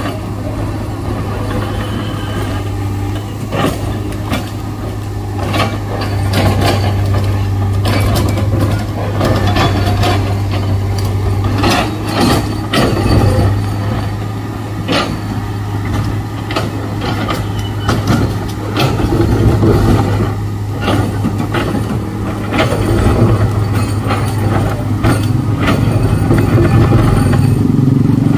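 Excavator's diesel engine running steadily under load. Over it come repeated sharp knocks, scrapes and clatter as a single bucket tooth strikes and breaks hard rock.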